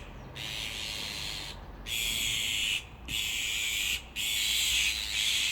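Azure-winged magpies giving harsh, hissing rasping calls: four long rasps of about a second each, with short breaks between.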